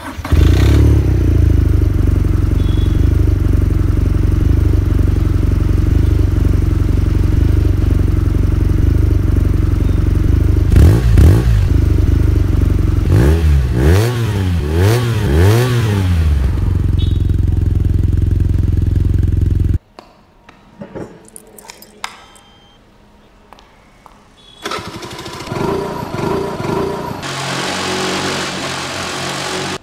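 Motorcycle engine starting and idling steadily, blipped several times in the middle so the pitch climbs and falls. The sound cuts off abruptly, and quieter clicks and a fainter, shorter mechanical running sound follow.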